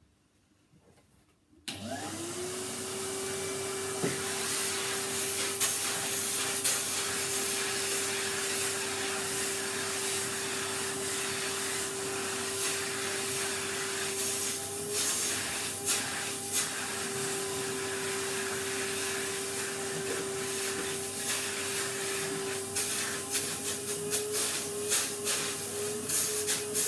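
Vacuum cleaner switched on about two seconds in, its motor spinning up quickly to a steady whine and then running. Sharp clicks and rattles come more often near the end, as sanding dust and grit are sucked up.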